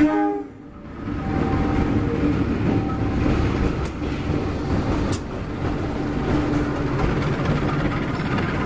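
Diesel-electric locomotive, a KAI CC201, passing close with its engine running in a steady rumble, then passenger coaches rolling by on the rails with a few sharp wheel clicks.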